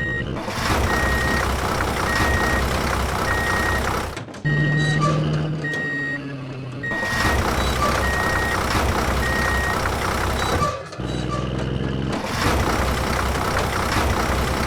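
Vehicle reversing alarm beeping in an even on-off rhythm, about one beep a second, over a running engine. The beeping stops about ten seconds in, and the engine sound cuts out abruptly twice and resumes.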